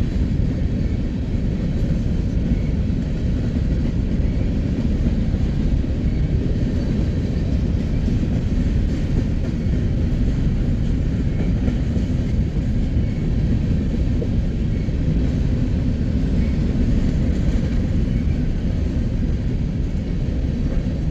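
Train of empty grain cars rolling past on the main line: a steady, even rumble of wheels on rail.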